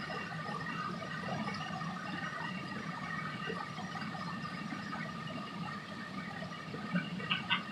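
Waterfall water rushing and splashing steadily, with a few short sharp sounds near the end.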